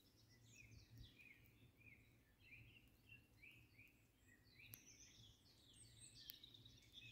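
Faint birdsong, a steady run of short chirps, over near silence.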